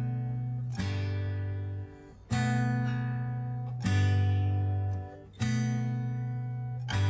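Acoustic guitar music: a chord strummed about every second and a half and left to ring out.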